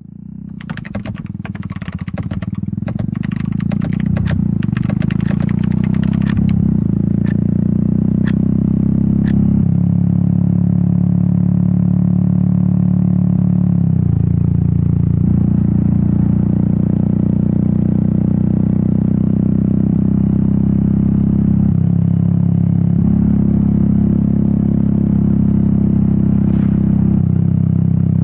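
Royal Enfield Meteor 350's single-cylinder engine and exhaust running under way, fading in over the first few seconds, with its note shifting several times as the throttle changes. Rapid clicking and clatter sound over it for the first six seconds or so.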